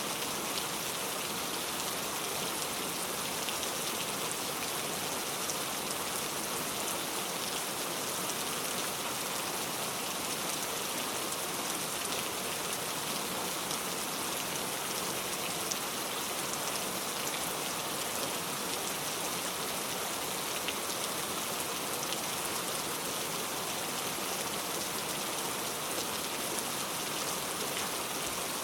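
Steady rainfall, an even hiss of many drops pattering, with fine individual drop ticks.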